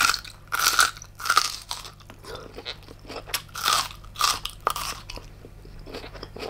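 A person chewing giant tiger prawn meat close to the microphone: a run of crunching bites, about one or two a second.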